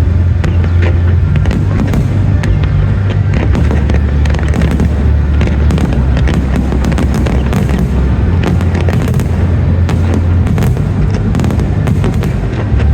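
Fireworks display with dense crackling and bursting from aerial shells, many reports a second, over loud music with a heavy bass.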